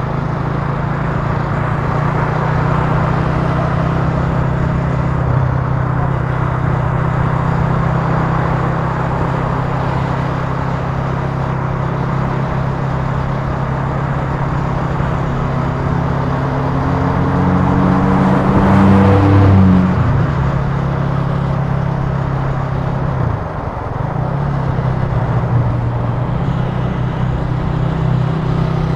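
Italika TC300 motorcycle engine running steadily at cruising speed, with wind rush over it. The sound swells louder with rising pitch for a couple of seconds about two-thirds of the way through, then dips briefly a few seconds later.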